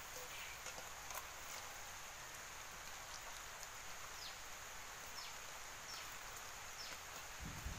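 Faint outdoor background hiss with a small bird's short, falling chirps repeated about once a second in the second half. A low thud comes near the end.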